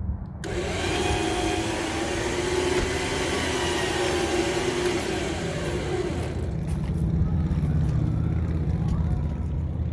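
Traveller 12,000 lb electric truck winch running under load while pulling a heavy truck. It is a geared motor whine that starts about half a second in and wavers slightly in pitch, then dies away about six seconds in, leaving a low steady rumble.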